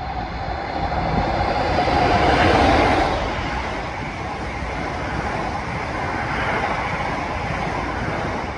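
A multi-car passenger train running past on the mainline: a steady rush and rumble of wheels on rails that swells to its loudest about two to three seconds in as the train comes level, then carries on steadily as the carriages go by.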